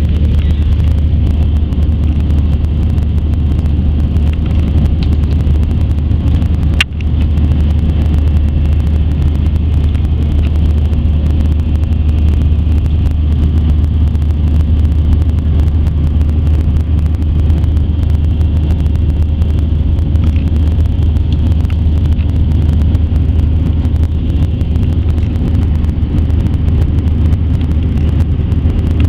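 Steady, loud cabin drone of an Airbus A320's CFM56 engines and rushing airflow, heard from inside the airliner. One brief click comes about seven seconds in.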